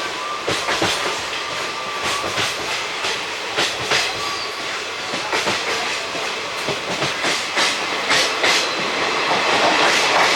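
Passenger train of ICF coaches running along the track, the wheels clicking and clattering over rail joints in an irregular clickety-clack above a steady rumble.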